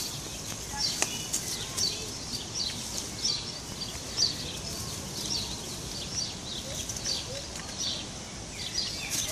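Small birds chirping over and over, short high chirps about twice a second, with a few brief knocks in between.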